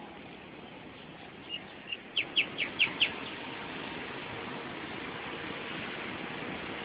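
A bird calling close by: a quick run of about seven sharp chirps over a second and a half, over steady background noise.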